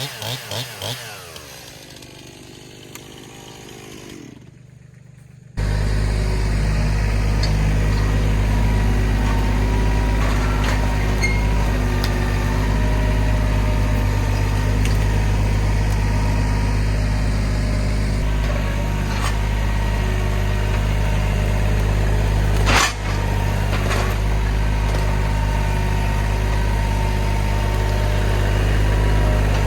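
A chainsaw dropping off as a cut ends. About five seconds in, a Mahindra tractor's diesel engine sets in abruptly and runs steadily at an even speed, with one sharp knock later on.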